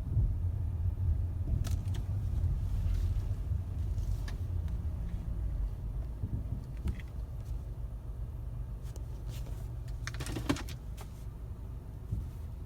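A 2012 Ford Fusion rumbling along at low speed, with a few light knocks and a louder clunk about ten seconds in. The clunks are the sign of a worn front lower ball joint.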